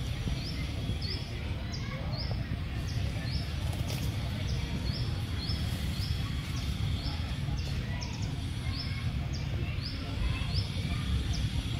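A bird repeating a short, high, downward-slurred note about twice a second, over a steady low rumble.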